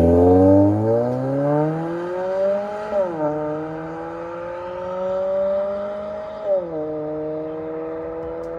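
Hyundai Elantra 1.8 four-cylinder engine through an MS-R valved aftermarket exhaust, accelerating under load, the note climbing steadily in pitch. It drops sharply at two upshifts, about three seconds in and again three and a half seconds later, and climbs again after each.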